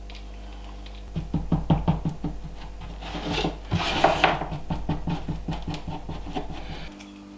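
Epoxy being stirred in a mixing cup: quick, rhythmic scraping and tapping strokes that start about a second in and stop shortly before the end.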